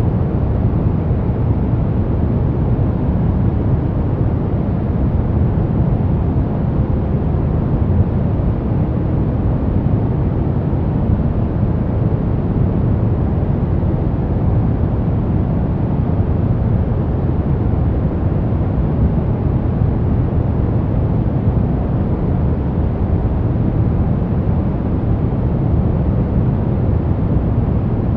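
Steady sleep white noise: a constant, unchanging noise with most of its weight in the low range and only a thin hiss above.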